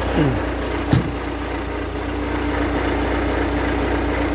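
Heavy truck's diesel engine running with a steady low hum. A short falling whine comes right at the start and a sharp click about a second in, then a steady drone holds.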